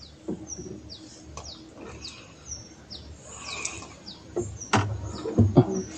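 A bird calling with short, high, falling notes, repeated over and over. A few sharp knocks and low thuds come near the end, louder than the calls.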